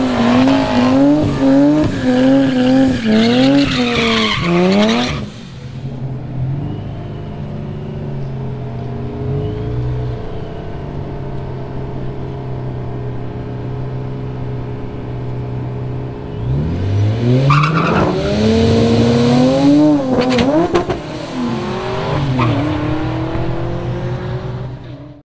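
Nissan 350Z V6 engines at a drag strip. For about five seconds one is held at high revs with the pitch bouncing up and down, along with tire squeal, as in a burnout. Then comes a steady lower running drone, and from about two-thirds in there are several rising rev sweeps as a car accelerates hard.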